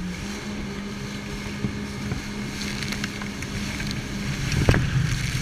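Jet ski engine running at a steady pitch. About four and a half seconds in, the note drops and a single loud thump sounds.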